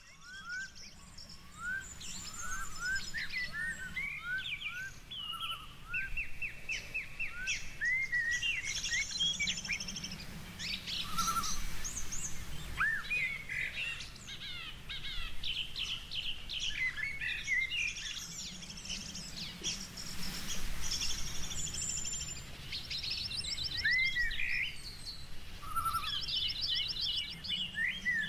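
A chorus of birds singing and calling over one another: rising chirps, rapid trills and whistled notes, fading in over the first couple of seconds, over low steady background noise.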